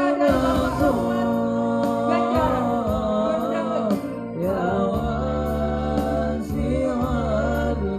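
Male students singing a melodious song with instrumental accompaniment: a sustained, ornamented vocal line over steady low sustained notes and a light ticking beat.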